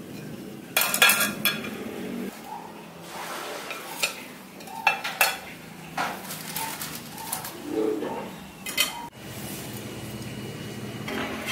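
Kitchen dishes and cutlery being handled: a string of separate clinks and knocks of utensils against bowls or cups, with a few short ringing tones in the middle.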